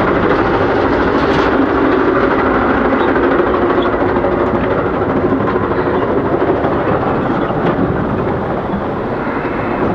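Running noise of a moving passenger train heard from inside the car: a steady, loud rumble and rattle with a few faint clicks, easing slightly near the end.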